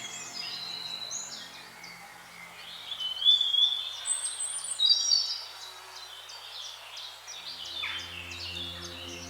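Several birds singing and calling in quick, overlapping chirps and whistles, loudest a few seconds in. Under them is a soft, steady music drone, and a deeper tone swells in near the end.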